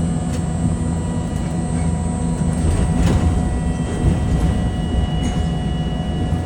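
Hiroden streetcar running along its track: a steady low rumble with faint steady tones above it and a few light knocks.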